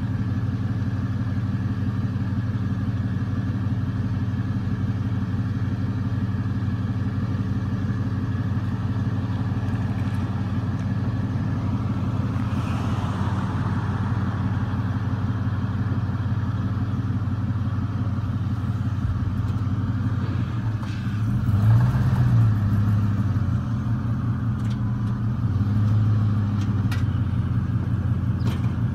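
1999 Ford F-150's engine idling steadily, with a brief light rev about two-thirds of the way through and another a few seconds later.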